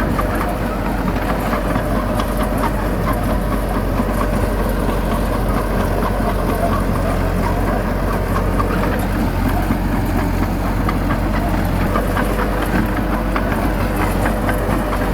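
Heavy diesel engine of earthmoving equipment, a bulldozer or dump truck, running steadily without change in pitch.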